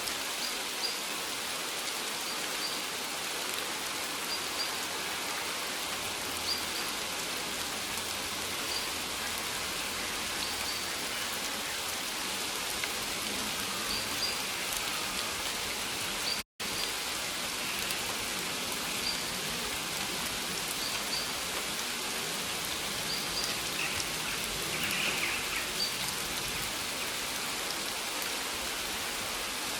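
Steady rain falling, with faint short high chirps about every two seconds. There is a brief drop-out to silence about halfway through.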